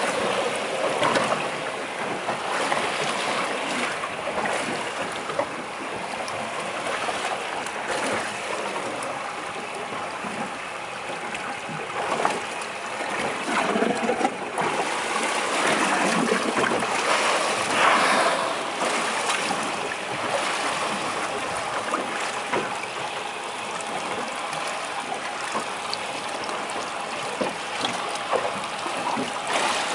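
Water lapping and sloshing against a small boat's hull, a steady wash with a few louder surges partway through.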